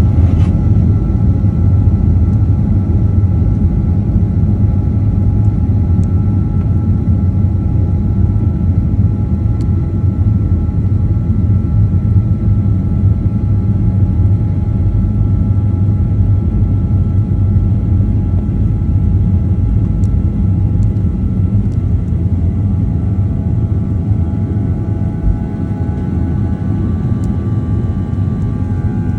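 Airbus A320 jet engines running steadily: a loud low rumble with a steady whine on top, easing slightly near the end.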